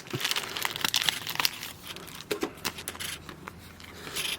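Thin plastic card sleeve crinkling and rustling in quick, crackly bursts as a trading card is handled and slid into it.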